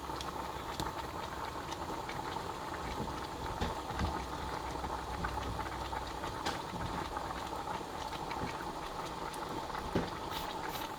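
Water in a small pan simmering and bubbling steadily under a pot of melting soy wax, with a few small ticks and pops.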